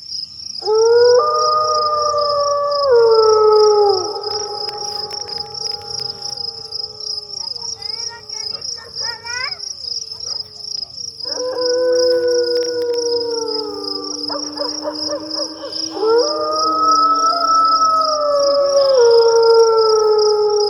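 Several canines howling together in long, gliding howls, two voices at once in places, with a run of short rising yips about halfway through. Crickets trill steadily behind them.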